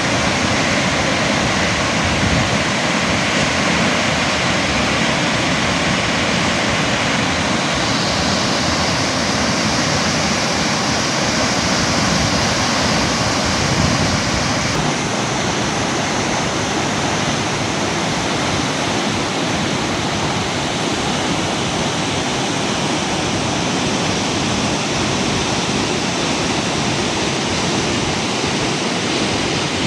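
Large waterfall pouring: a loud, steady wash of falling water with no break, its tone shifting slightly about halfway through.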